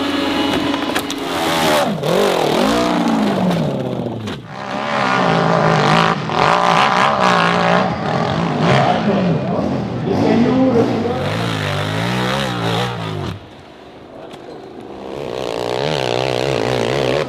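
Motocross bike engines revving hard under load on a steep hill climb, the pitch rising and falling again and again. About 13 seconds in the level drops, then an engine revs up again near the end.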